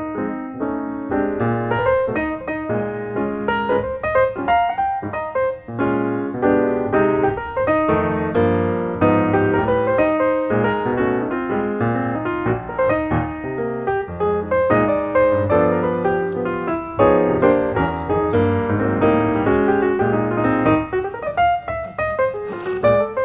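Background piano music, a steady stream of notes with chords and melody.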